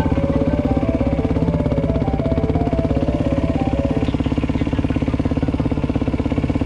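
Yamaha WR450F's single-cylinder four-stroke engine ticking over steadily at low revs, with an even rapid pulse.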